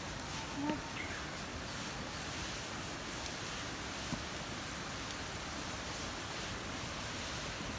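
Steady rush of a river, with a short bird call near the start and a few faint ticks.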